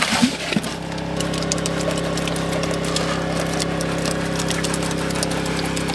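Cement mixer running steadily, a constant motor hum with the drum turning a batch of concrete.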